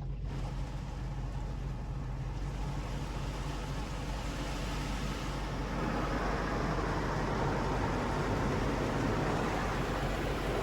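A touchless car wash spraying or blowing over the car, heard from inside the closed cabin: a steady hiss that grows louder about halfway through, over a low, steady hum.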